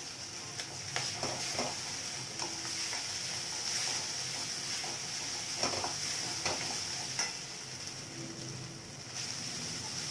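Food frying with a steady sizzle in an aluminium kadai on a gas burner, while a spatula stirs it and scrapes against the pan in short, irregular strokes.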